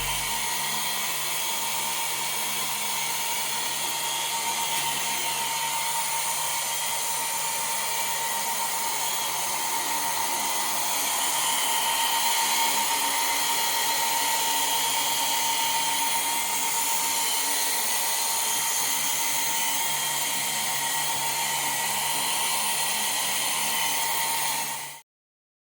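Small electric motor whining steadily at a high pitch over a hiss, a little louder partway through, then cutting off abruptly near the end.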